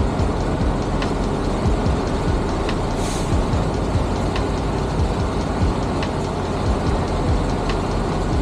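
Steady running of a semi truck's diesel engine, with a faint regular ticking a little under once a second and a brief hiss about three seconds in.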